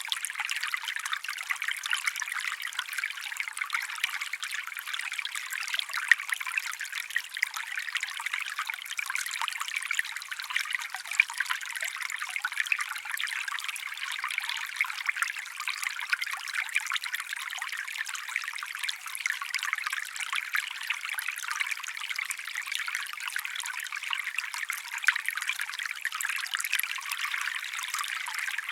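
Water trickling steadily, a continuous light splashing like a small stream running over stones.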